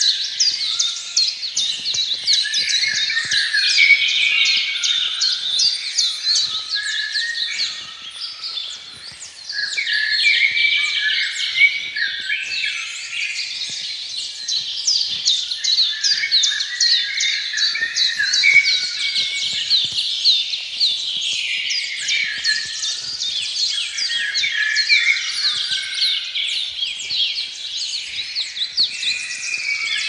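A chorus of many small birds chirping without a break: rapid, high, overlapping chirps at several pitches, thinning out briefly about eight seconds in.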